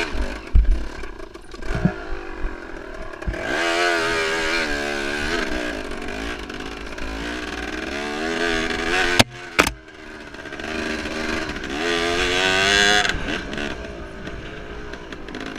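Enduro motorcycle engine revving up and down on a rough trail, with knocks and clatter from the bike over the first few seconds and a brief drop-out about nine seconds in before it picks up again.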